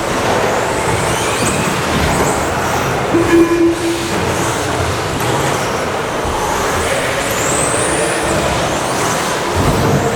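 Electric RC stadium trucks with 13.5-turn brushless motors racing on a carpet track: high motor whines rise and fall as they accelerate and brake, over a steady noisy din of tyres and drivetrains.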